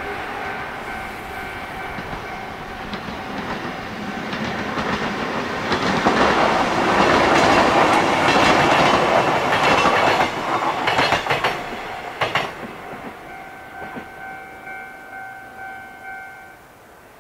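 A Japanese level-crossing bell ringing in a steady pulsing tone, and an electric train running past with its wheels clacking over the rail joints, loudest in the middle and then fading. The crossing bell rings again near the end and stops.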